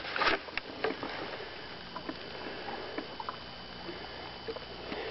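Handling a bass in a boat to measure it: a brief rustle just after the start, then scattered light knocks and clicks over a faint steady hum.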